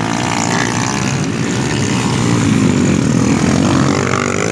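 Dirt bike engine revving, its pitch rising and falling as the throttle is worked.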